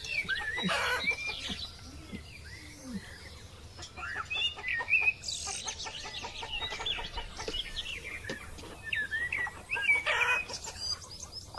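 Chickens clucking on and off, with light clinks of a metal spoon against a pot.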